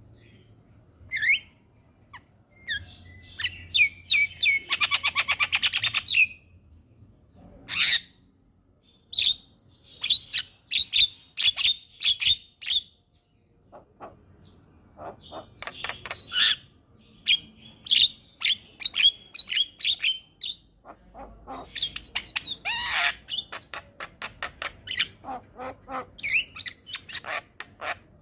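Javan myna (jalak kebo) singing a long, varied song of sharp whistles, harsh squawks and chattering notes, with a fast rattling trill about four seconds in.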